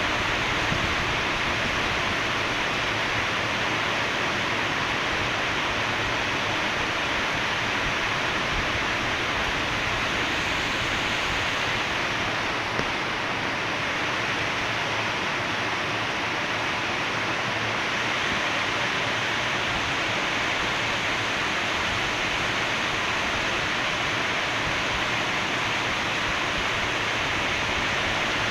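Steady rainfall, a dense, even hiss of falling rain with no drips or thunder standing out.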